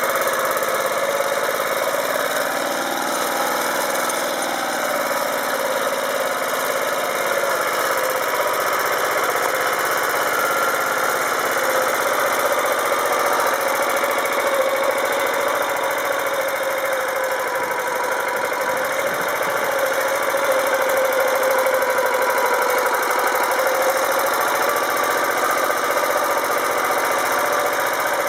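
Motor Sich walk-behind tractor's engine running steadily while working in third gear, its pitch drifting slightly up and down.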